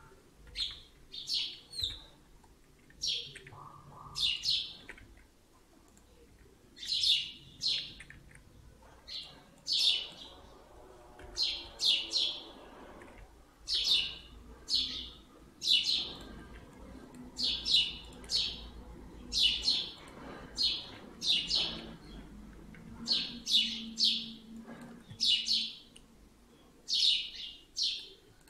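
A bird chirping over and over: short, high chirps, often in quick pairs, about one a second.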